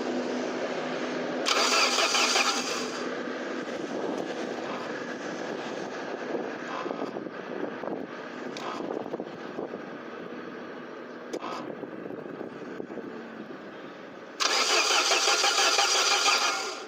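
Starter motor cranking the Saab 9000's 2.0-litre turbo four-cylinder engine in two bursts: a short one about a second and a half in and a longer one of about two seconds near the end. The engine turns over without firing, because the direct ignition cassette is disconnected.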